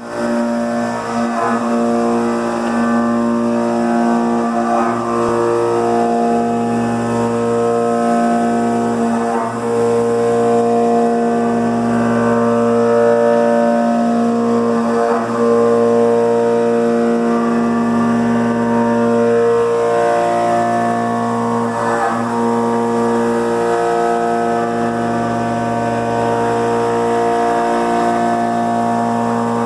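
Haas TM-1P CNC mill's motors whining in several held tones at once, each tone stepping to a new pitch every few seconds.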